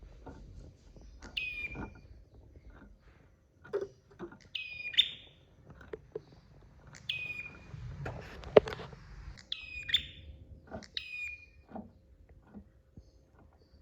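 Prenjak (red-headed 'tamu' type) calling: a series of about six sharp, short calls a second or two apart, each a quick drop in pitch. Scattered soft ticks and one loud click come between the calls about two-thirds of the way in.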